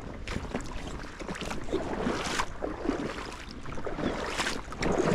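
Someone wading through shallow creek water in waders: irregular splashes and sloshes of water with each uneven step.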